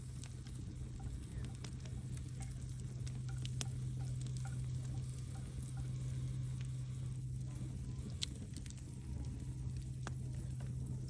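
Wood fire burning in a fireplace, crackling with scattered sharp pops of burning logs over a steady low hum.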